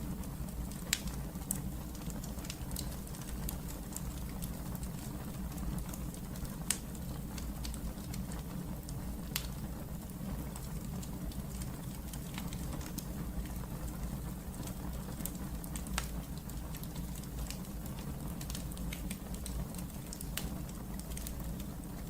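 Fire burning in a fireplace, crackling and popping irregularly over a steady low rumble, with a few louder pops scattered through.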